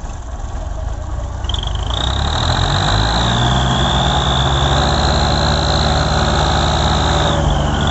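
Tractor diesel engine working hard under heavy load, its note climbing over the first couple of seconds and then holding steady, with a thin, wavering high whine over it. The load is a stuck sugarcane trolley that is not moving.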